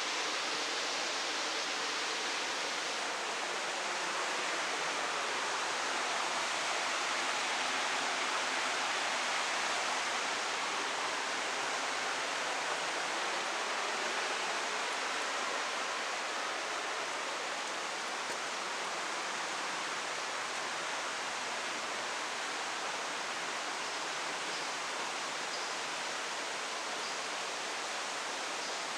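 Fast-flowing river running with a strong current: a steady, even rush of water that hardly changes.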